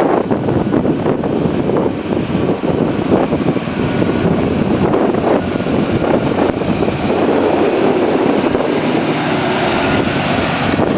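Deutz-Fahr tractor's diesel engine running steadily under load while pulling an Overum plough through the soil.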